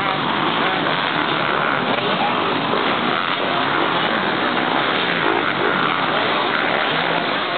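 Motocross motorcycle engines running, a steady, dense engine noise with no single clear pitch.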